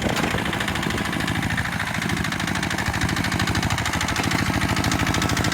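Small tractor diesel engine running steadily, with a rapid, even chugging beat.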